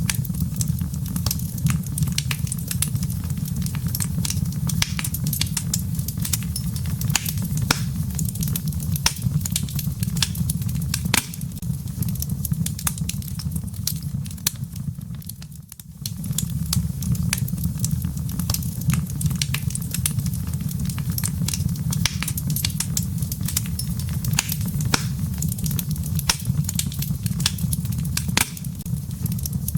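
Wood fire crackling in a fireplace: dense, irregular pops and snaps of burning wood and embers over a steady low rumble. The sound dips briefly about fifteen seconds in, then picks up again.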